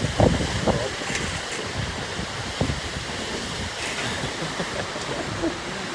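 Steady rushing outdoor noise, with wind gusting unevenly against the microphone.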